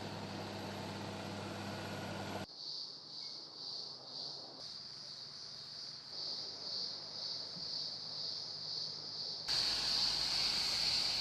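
A rushing noise for the first two seconds or so, then a high insect chorus pulsing about twice a second, which becomes louder and steadier near the end.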